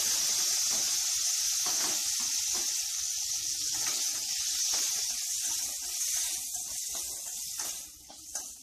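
Half-boiled amla (Indian gooseberry) pieces sizzling loudly in hot oil tempered with mustard seeds in a steel kadai. The hiss starts suddenly as the wet pieces hit the oil and dies down near the end as they are stirred.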